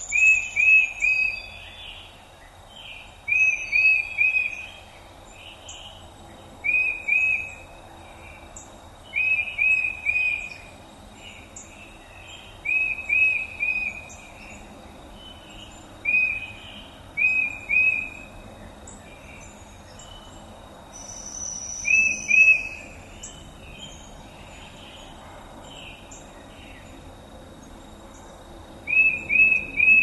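Songbird singing a short phrase of three or four quick notes, repeated every few seconds, with other birds chirping higher and fainter in the background.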